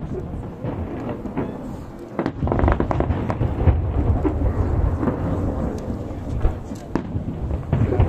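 Aerial fireworks shells bursting: a few separate bangs, then from about two seconds in a dense barrage of booms and crackles over a low rumble.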